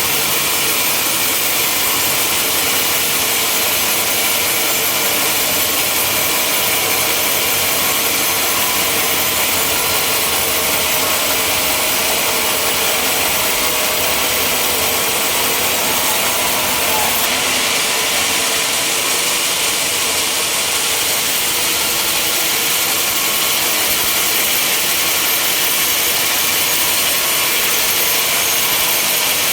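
Sawmill running and sawing timber: a steady, loud mechanical noise with a strong hiss in the high range that does not let up.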